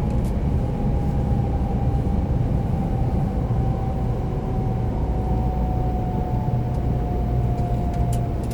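Cabin running noise of a 300 series Shinkansen: a steady low rumble with a faint whine that slowly falls in pitch as the train slows for its station stop.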